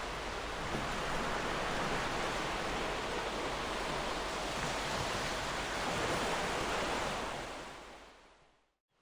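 Gentle ocean surf washing on the shore, a steady hiss of breaking water that fades out to a brief silence near the end.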